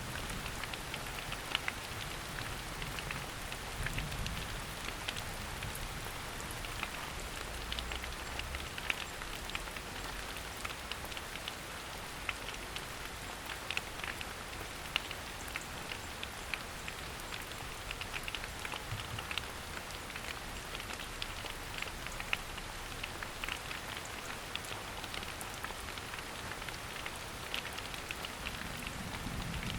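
Steady rain falling through forest, a continuous hiss with many individual drops pattering and ticking close by.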